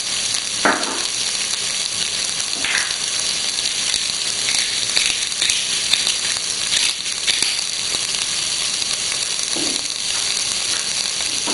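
Tomato pulp and arborio rice frying in a stainless steel pot over strong heat, a steady sizzle.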